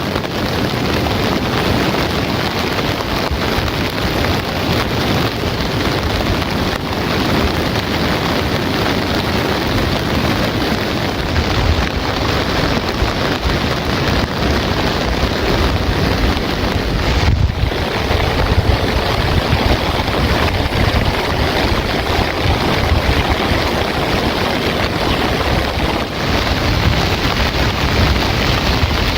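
Heavy rain falling, a steady loud hiss with a low rumble underneath.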